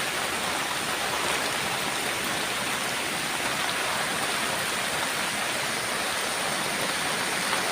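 Flooded Freshwater Creek running across the park: a steady rush of fast-moving floodwater.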